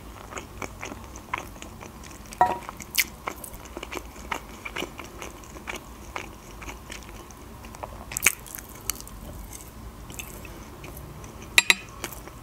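Close-miked chewing and small wet mouth clicks as a person eats a soft meat cutlet topped with mashed potato. Near the end a metal fork is set down on the ceramic plate with a sharp double clink.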